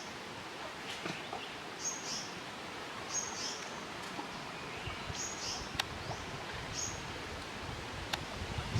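A bird calling repeatedly: short, high calls, four of them spaced a second and a half to two seconds apart, over a steady background hiss, with a few faint clicks.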